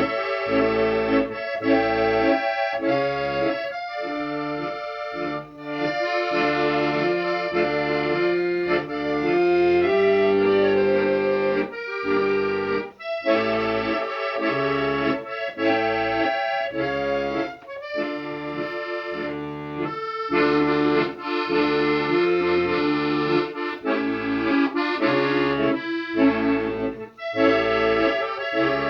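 Accordion music: chords held and changed every half second or so over a pulsing bass, with a melody line above.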